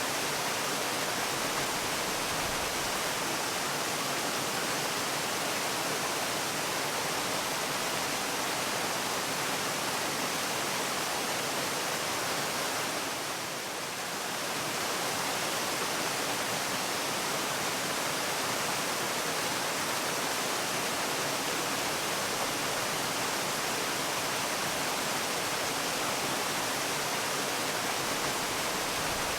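Waterfall: a steady, even rush of falling water, dipping slightly for a moment about halfway through.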